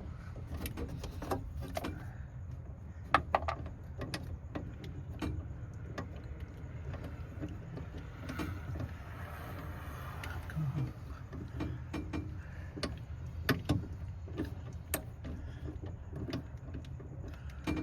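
Scattered clicks and metal clinks of a hand wrench turning in short strokes on the battery cable terminals of a master kill switch, over a steady low hum.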